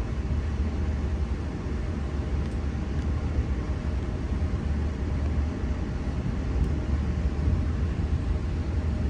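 V set double-deck electric train running: a steady low rumble with a faint steady hum, no change through the stretch.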